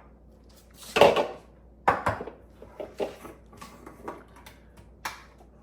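Kitchen containers and utensils being handled while flour is got out for measuring: a clatter about a second in, another about two seconds in, then lighter taps and clicks.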